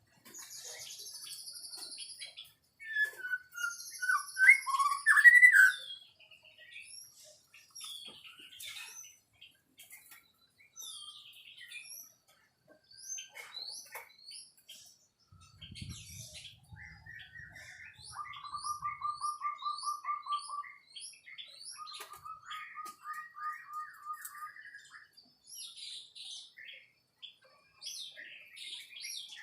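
White-rumped shama singing a varied song. Loud whistled phrases slide up and down in pitch about three to six seconds in, with quieter short high notes around them. Later come two fast rattling trills of quickly repeated notes.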